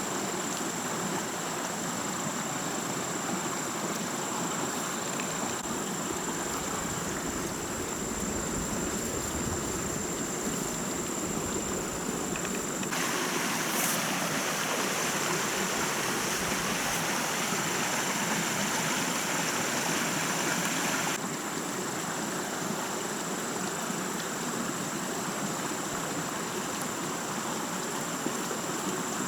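Steady rushing noise, louder for about eight seconds in the middle, with a continuous high-pitched insect drone over it.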